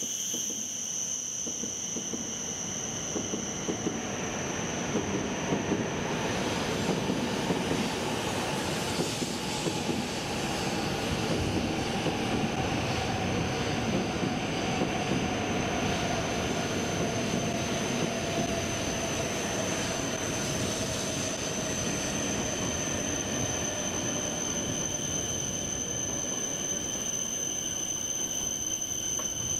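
E7 series Shinkansen train rolling slowly into the station as it brakes: a steady rumble of wheels on rail, with a whine that slowly falls in pitch as the train slows.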